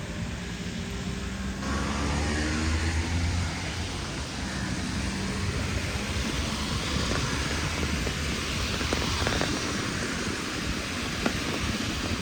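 Steady heavy rain with a vehicle passing close by, its motor note rising as it pulls away along with a low rumble; scattered sharp ticks of drops in the second half.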